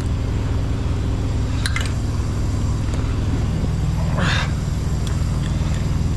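Truck engine idling steadily with a low hum, with a short rustle about four seconds in and a few light clicks.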